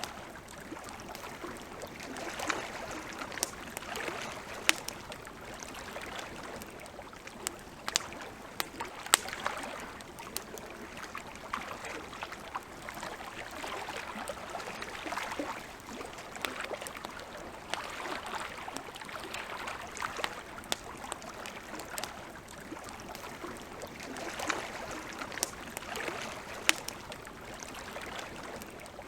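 Wood campfire crackling, with many sharp, irregular pops and snaps over a steady hiss.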